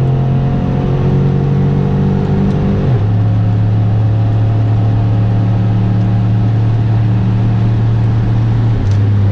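Pontiac Grand Prix GXP's LS4 V8 heard from inside the cabin, accelerating with its pitch rising slowly. The pitch drops as the automatic transmission upshifts about three seconds in and again near the end.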